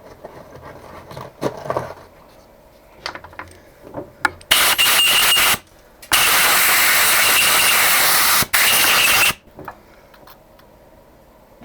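Compressed-air blow gun hissing in three short blasts, with a faint whistle, likely clearing chips from a freshly tapped hole in a steel block. Each blast starts and stops abruptly: first a short one, then a long one and a brief one. Light metallic clicks of hand tools come before them.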